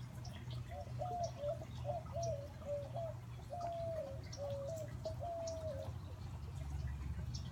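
A large bird giving a series of about seven low hooting notes, a couple of them drawn out and dropping at the end, that stops about six seconds in. Small birds chirp faintly throughout over a steady low water sound from a garden fountain.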